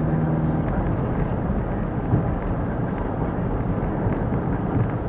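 Car driving, heard inside the cabin through a dashcam microphone: steady engine and tyre rumble over a rough road surface, with small knocks. A steady engine hum drops away under a second in, leaving mostly road rumble.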